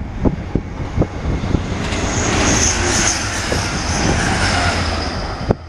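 A train passing at speed: a rush of noise that swells about two seconds in, with a high whine, over wind buffeting the microphone, and then cuts off abruptly near the end.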